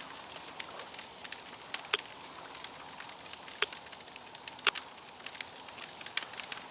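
Wood fire crackling: a steady hiss with scattered sharp snaps and pops, the loudest about two, three and a half and four and a half seconds in.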